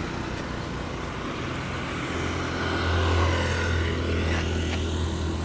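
A motor vehicle engine running nearby as a steady low hum, growing louder about two seconds in.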